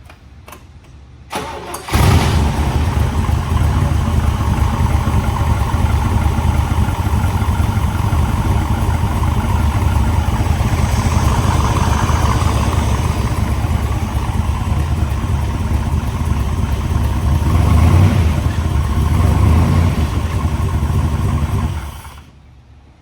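1967 Chevrolet Corvette's 427 big-block V8 starting from cold: a brief crank, then it catches about two seconds in. It runs steadily for about twenty seconds, swelling a little near the end, then stops.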